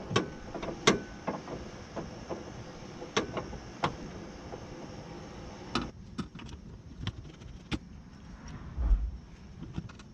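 Honda Civic power-window motor and new regulator being test-run in the open door: a faint steady hum that stops about six seconds in, among sharp clicks and knocks from the regulator and handled parts, with a dull thump near the end.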